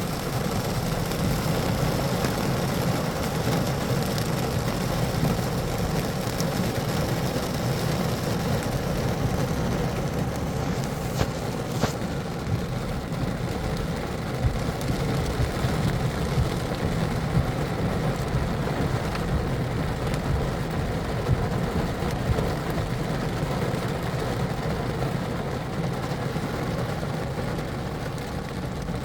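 Heavy downpour of rain on a car's roof and windshield, heard from inside the car: a steady, dense patter with sharp individual drop hits scattered through it.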